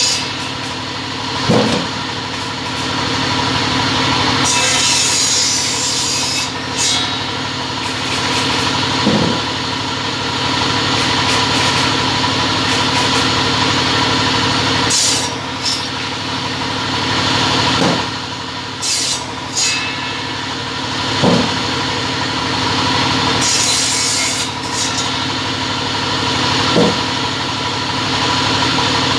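A double-head cutting saw running steadily, its blades cutting through workpieces in short passes every few seconds, with occasional knocks as pieces are moved.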